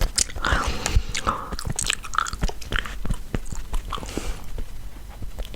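Gum being chewed close to the microphone: wet smacking and sharp clicking mouth sounds at an uneven pace.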